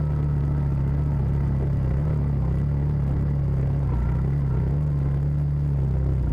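CFMoto side-by-side's engine running steadily at low speed under load, crawling up a steep trail.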